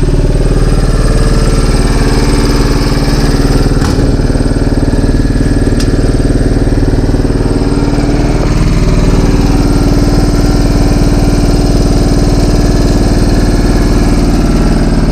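Deutz F1L511 single-cylinder air-cooled diesel engine running steadily after a long lay-up, with an even, unchanging beat.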